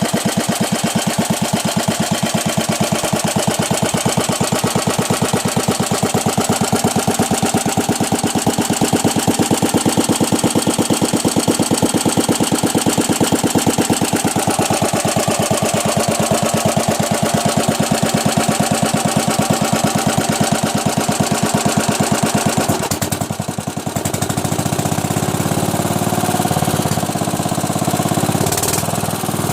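Bernard W 110 bis single-cylinder stationary engine running with a steady, regular firing beat. About 23 seconds in the sound briefly dips, then carries on smoother and steadier.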